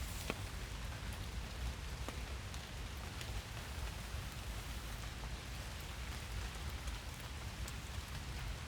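Steady rain falling in a forest, an even hiss with scattered sharp ticks of individual drops landing close by.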